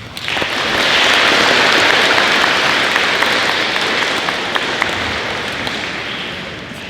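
Audience applause that starts suddenly, holds for a few seconds and then slowly dies away.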